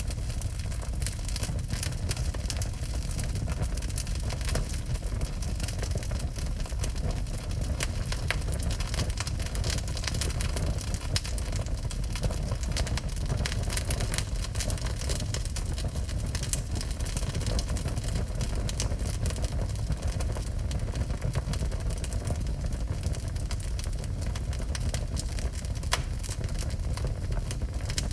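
Wood fire burning in a fireplace: a steady low rumble of the flames with frequent sharp crackles and pops of the burning wood.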